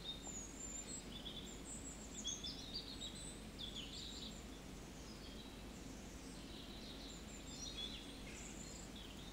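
Faint birds chirping in short, high-pitched phrases over a low steady hum.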